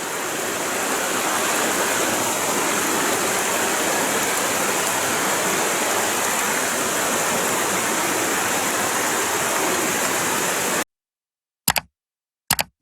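Garden Creek Falls, a waterfall, rushing in a loud, steady wash of falling water that cuts off abruptly about two seconds before the end, followed by two short clicks.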